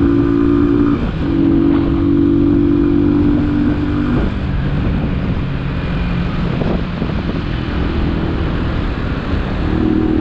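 Italika DT 125 motorcycle's single-cylinder four-stroke engine running while riding in traffic, over road and wind noise. The engine note breaks briefly about a second in and drops to a lower pitch about four seconds in.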